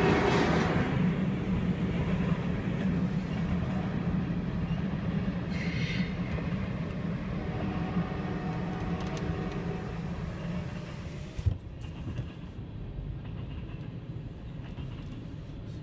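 Freight train rolling past a grade crossing: a steady low rumble of wheels on rail that slowly fades, with a single sharp knock near the end.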